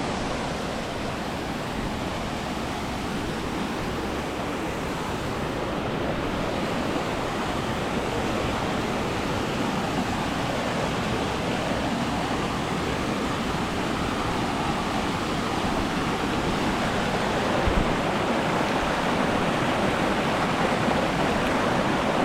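Waterfall rushing, a steady noise of falling water that grows a little louder.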